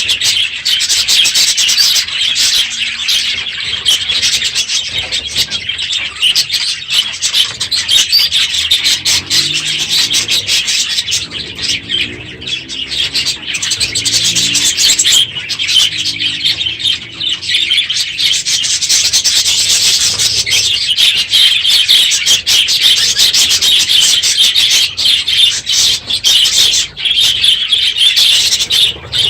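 A flock of budgerigars in an aviary chattering and warbling nonstop in a dense, loud chorus of chirps. The noise comes from a crowded aviary at the end of the breeding season. A fainter low, pitched sound joins for several seconds in the middle.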